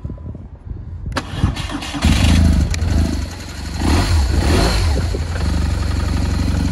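BMW R1200GS boxer-twin engine started on the button: the starter cranks about a second in, the engine catches at about two seconds, is revved briefly around four seconds in, then settles into a steady idle through its Remus exhaust.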